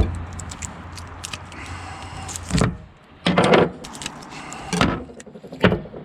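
A handful of knocks, scrapes and rattles of hard objects being handled, as a makeshift taped-on cup holder is tried out.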